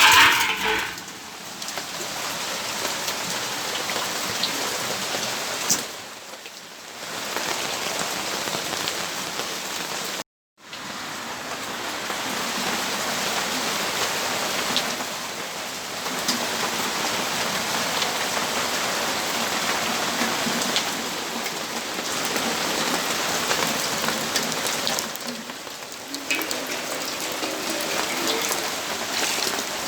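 Rain falling steadily, a dense even hiss of drops on surfaces. The sound drops out completely for a moment about ten seconds in.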